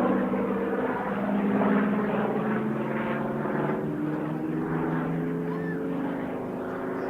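Chance-Vought Corsair's Pratt & Whitney R-2800 radial engine and propeller running at power as the fighter flies by. The engine tone shifts in pitch and fades slowly as it moves away.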